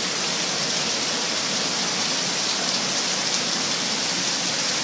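Heavy tropical rain pouring down steadily, a dense even hiss of drops hitting the ground and surfaces.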